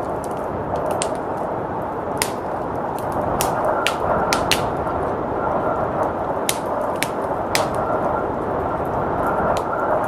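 Wood fire crackling with sharp, irregular pops over a steady rush of blizzard wind.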